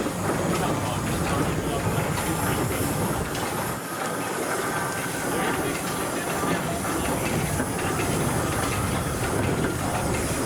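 Steam traction engine running as it drives past, a steady mix of steam hiss and working mechanical noise.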